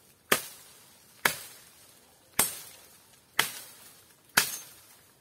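Five sharp chopping strikes on a dry branch, about one a second, each dying away quickly.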